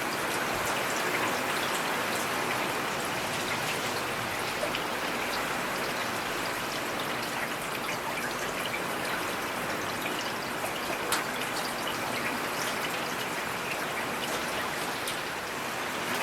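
Steady rain falling in a forest, a constant hiss with individual drops ticking through it.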